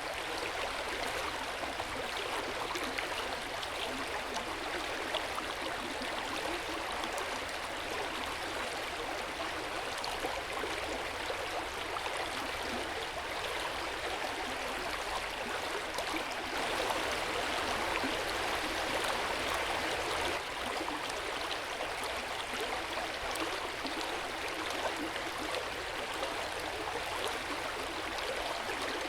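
Hot spring water flowing into an outdoor bath, a steady rush of running water that swells slightly for a few seconds past the middle.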